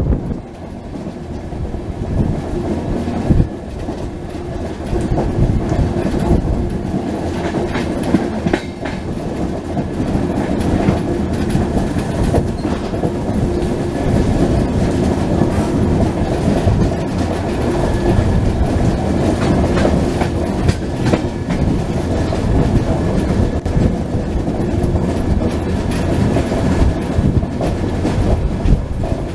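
Passenger train running on the rails, heard from aboard a coach: a steady rumble of wheels on track with the repeated clickety-clack of wheels passing over rail joints.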